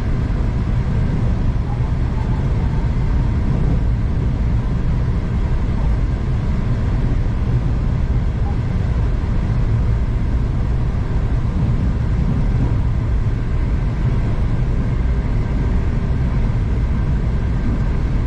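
Steady low rumble of a V/Line passenger train running at speed, heard from inside the carriage, with a few faint steady tones over it.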